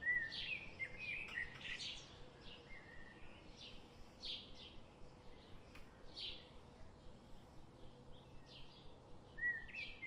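Small birds chirping: quick, high-pitched calls that come every second or so, with a louder run of chirps at the start and again near the end.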